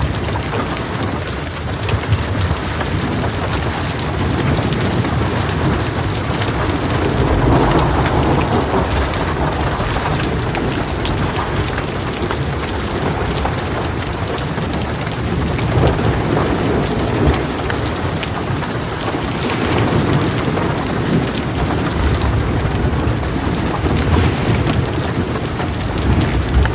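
Heavy rain falling steadily on a metal roof, with thunder rumbling and swelling a few times, around a third and again about two thirds of the way through.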